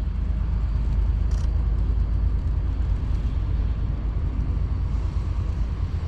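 Steady low rumble of wind buffeting the microphone in a snowstorm, with one faint click about a second and a half in.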